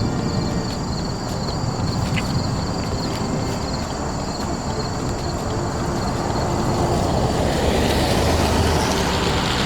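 Road noise of a vehicle driving, a steady rush that swells louder about eight seconds in.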